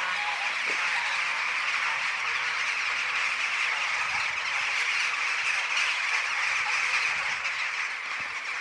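A huge flock of birds calling all together in a dense, unbroken din.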